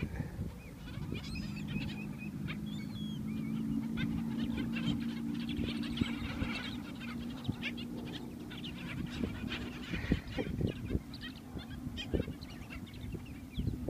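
Birds chirping and calling over a steady low hum, with scattered short knocks in the second half.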